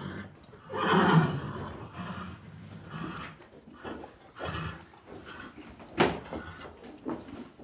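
Horse neighing once, loudly, about a second in, followed by a few softer calls and some sharp knocks later on.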